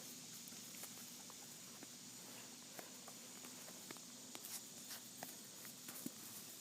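Faint, scattered light taps and clicks of puppies' paws moving about, over a steady low hiss.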